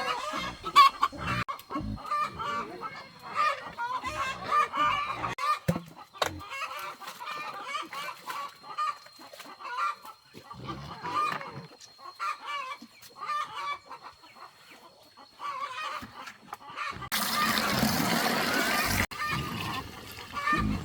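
Flock of chickens clucking continuously, many short calls overlapping. A thin steady high whine runs under most of it, and a loud two-second rush of noise comes near the end.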